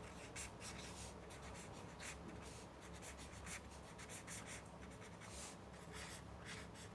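Faint, irregular scratching strokes of a pen writing on paper.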